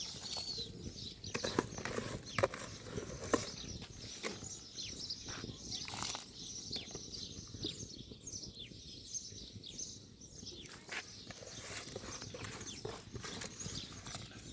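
Small birds chirping, many short high calls falling in pitch, with a few sharp knocks in the first few seconds.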